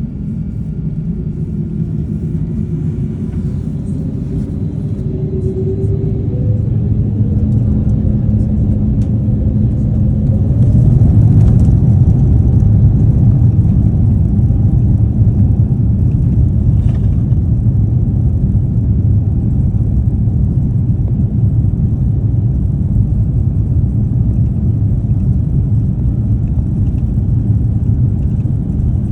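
Airbus A350-900's Rolls-Royce Trent XWB jet engines spooling up to takeoff thrust, with tones rising for the first ten seconds or so, then a loud, steady low rumble through the takeoff run.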